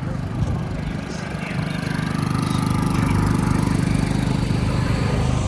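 An engine running with a steady, pulsing low rumble, growing louder about two seconds in and then holding.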